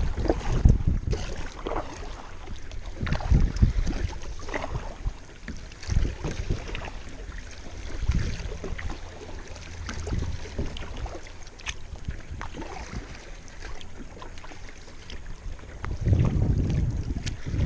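Kayak paddle strokes dipping and splashing in the water in uneven bursts every couple of seconds, with wind rumbling on the microphone.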